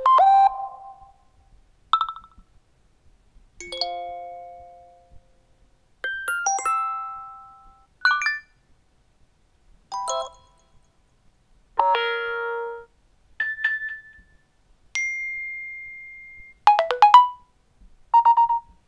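New iOS 7 alert tones played one after another: about eleven short electronic chimes, dings and little jingles, each different, with brief silences between them. Near the end one is a single steady beep held about a second and a half.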